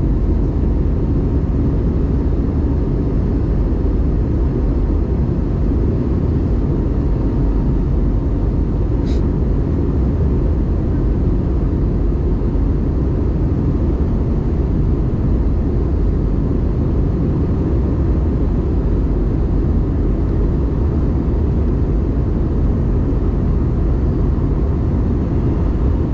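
Cabin noise of an Airbus A320neo in flight: a steady low rumble of airflow and engines that holds unchanged. A faint click about nine seconds in.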